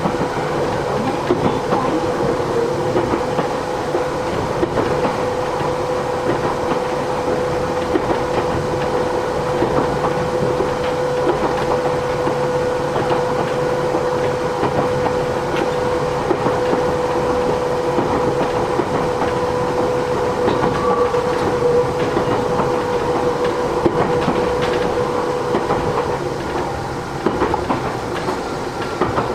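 Interior running sound of a Matsumoto Electric Railway 3000 series electric train: wheels rattling and clicking over the track, with a steady hum from the running gear that fades out near the end.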